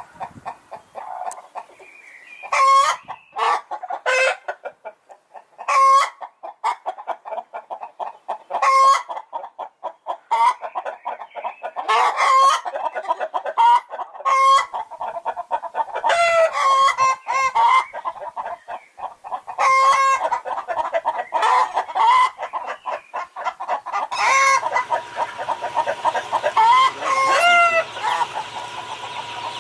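Chickens clucking continuously, with a loud squawking call breaking in every couple of seconds. A faint steady hum joins in near the end.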